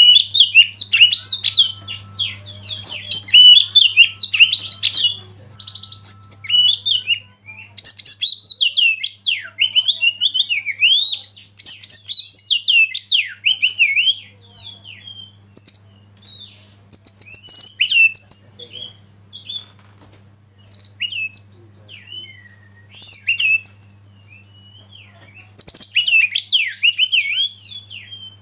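A songbird singing a rapid, varied run of chirps, whistles and short trills, in dense bursts with brief pauses and sparser phrases in the middle. A faint steady low hum runs underneath.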